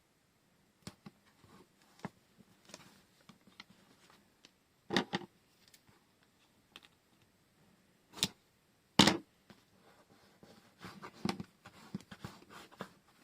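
Washi tape rolls and their packaging being handled on a desk: scattered light clicks, taps and rustles. A few sharper knocks come about five, eight and nine seconds in, and a busier patch of handling comes near the end.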